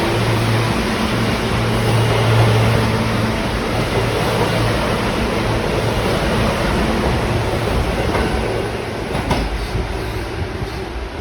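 New York City subway train running on the rails: a steady rumble and rushing noise with a low hum, a few short knocks about nine seconds in, the whole sound easing off toward the end.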